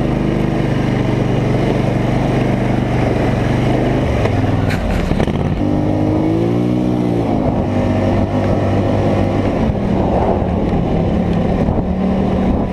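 Polaris Scrambler 850 ATV's twin-cylinder engine running under load. Its pitch drops about four seconds in, then it revs up and back down once. A single sharp click comes just before the rev.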